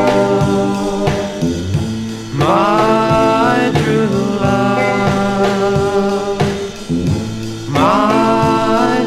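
Surf/garage rock band music, with notes that swoop upward twice, about two and a half and eight seconds in.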